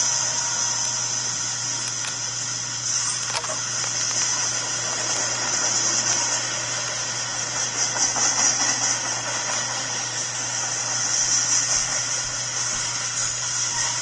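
Freight train cars rolling past on the rails: a steady wheel-on-rail noise with a strong high hiss. The trailing diesel locomotive is going by at the start.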